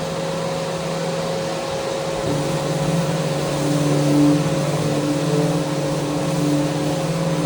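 Electric power sander running against a mounted handrail: a steady motor hum under the hiss of abrasive on the rail, the hum dropping slightly in pitch about two seconds in.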